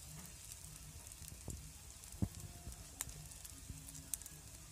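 Breadcrumb-coated chicken and potato rolls deep-frying in hot oil: a steady sizzle with a few scattered pops.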